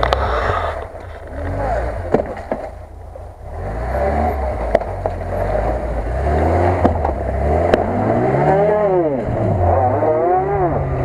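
Lada Niva (VAZ-2121) four-cylinder engine pulling under load through an icy, water-filled rut. It runs low and unevenly at first, then revs up and down twice near the end as the car climbs out. A few sharp knocks are heard along the way.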